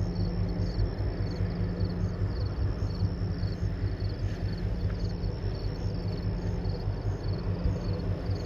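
Low, steady throb of the tanker Algocanada's engine as she passes under way, with insects chirping in a high, even rhythm a few times a second.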